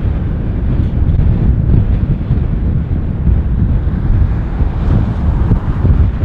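Low, steady rumble of a large jet airliner's engines on landing, with wind buffeting the microphone.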